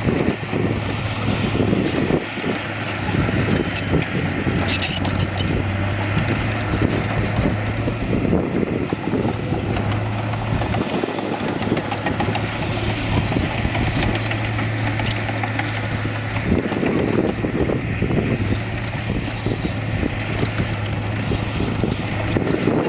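Diesel engine of heavy earthmoving machinery running steadily, a low drone with rough clatter and knocking over it; the drone dips briefly about eleven and sixteen seconds in.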